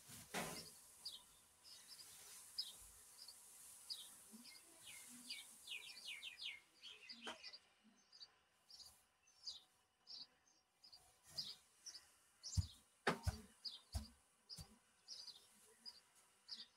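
Small birds chirping: many short high chirps scattered throughout, some in quick runs. There is also the rustle of straw being forked over and a few dull thumps, the loudest pair about 13 seconds in.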